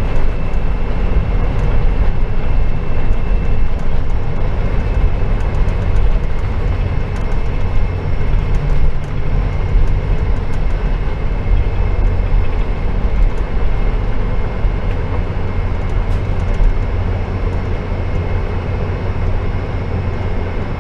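Inside the cabin of a Boeing 747-400 taxiing after landing: a steady, loud low rumble of the airliner rolling along with its Rolls-Royce RB211 engines at idle, with faint steady high whine tones above it.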